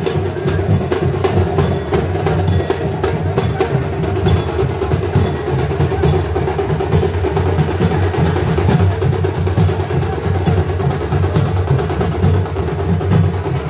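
Percussion music: drums playing a steady, dense beat, with sharp clicking strikes about twice a second.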